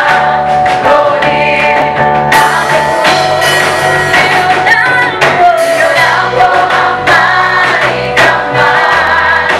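A worship team singing a gospel praise song with a band backing: voices in melody over bass and drums with a steady beat.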